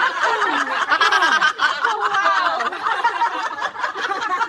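Several people laughing at once, their voices overlapping.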